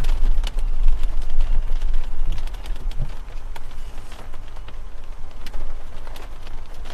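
Wind rumbling on the microphone, with scattered sharp ticks and knocks over it, louder in the first two seconds or so.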